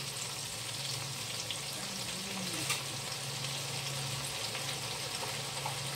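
Blended spice paste sizzling in hot oil in a wok: a steady frying hiss, with a few faint clicks and a low steady hum underneath.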